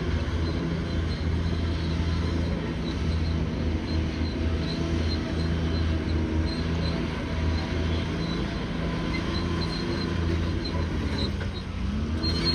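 Bulldozer's diesel engine running steadily with a deep hum, its pitch shifting slightly as the load changes and rising near the end.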